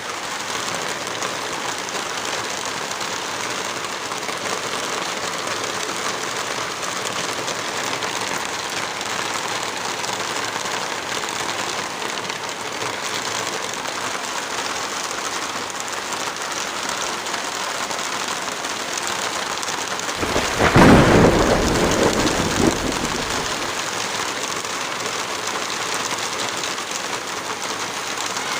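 Heavy rain falling steadily, with a single thunderclap about two-thirds of the way through that rumbles for two to three seconds before fading back into the rain.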